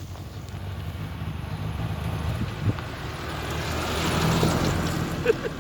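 A car driving, its engine running low under tyre and road noise that swells to a peak about four seconds in and then eases, with a short click near the end.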